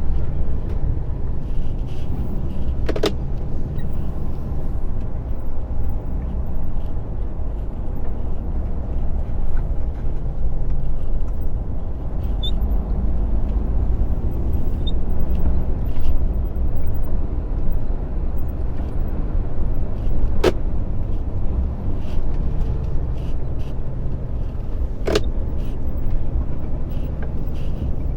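Lorry's diesel engine and road noise heard from inside the cab while driving, a steady low rumble, with three sharp clicks.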